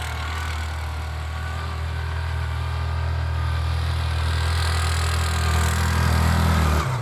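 Vehicle engine running with a steady low hum that grows a little louder, then drops off abruptly shortly before the end.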